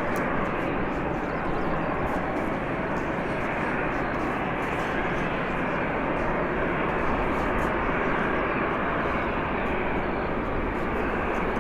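Jet airliner engine noise, a steady rush that holds at an even level.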